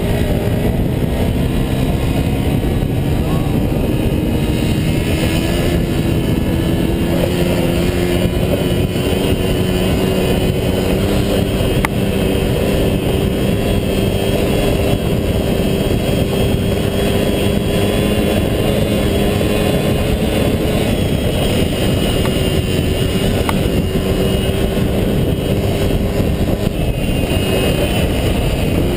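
Small motorbike engine running at a steady cruising speed, its pitch rising a little in the first few seconds, with wind rushing over the helmet-mounted camera.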